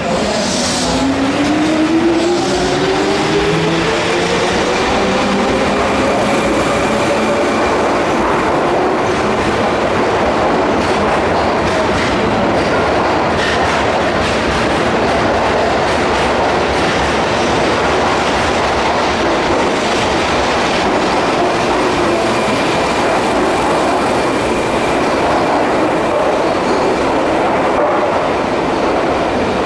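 Keihan electric train pulling out: its traction motors whine and climb in pitch over the first several seconds as it gathers speed, then a steady rumble of wheels on rail with occasional clicks over the joints.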